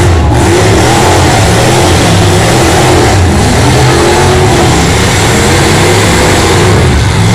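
Several demolition derby cars' engines running and revving at once in a loud, steady din, their pitch rising and falling as they accelerate.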